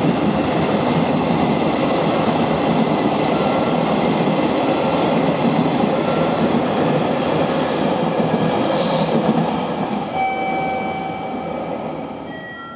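A train passing close by, its wheels rumbling and clattering over the rails, then fading away over the last few seconds as faint high-pitched rail squeal lingers.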